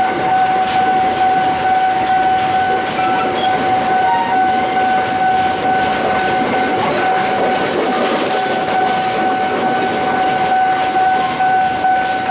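Passenger train carriages rolling past at close range, a steady loud noise of wheels on rail. A single constant high tone runs unchanged through it.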